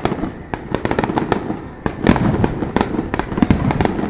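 Fireworks display: irregular bangs and crackles of firework bursts going off in quick succession, with a louder cluster of bangs about two seconds in.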